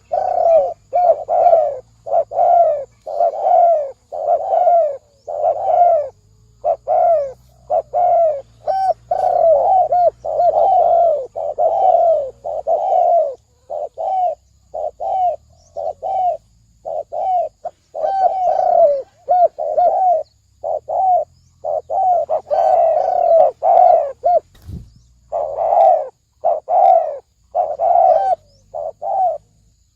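Spotted doves cooing, a fast, continuous run of short low coos about two a second, with brief gaps: the deep 'thổ sấm' call type. A faint low thump about 25 seconds in.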